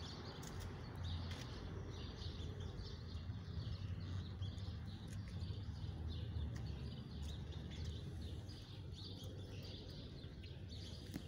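Birds chirping and calling repeatedly over a low, steady rumble of outdoor background noise.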